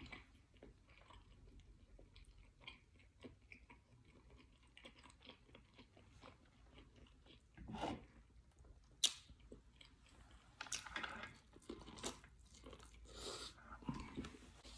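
A person chewing and biting food close to the microphone: scattered soft clicks and crunches, with a few louder bites in the second half.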